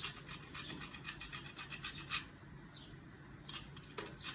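A utensil scraping round the bottom of a pot while béchamel sauce is stirred: quick rhythmic scrapes, about five a second, for the first two seconds, then a pause and a few more strokes near the end.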